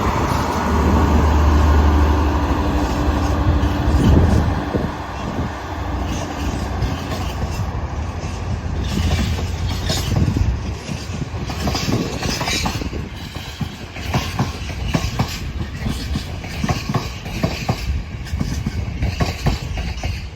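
Train running past at the station platform: a loud low drone for the first few seconds, then wheels clicking and clattering irregularly over rail joints and points as it goes on.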